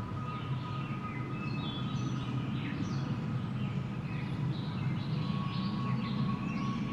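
Steady, low-pitched wind noise, with small birds chirping again and again throughout.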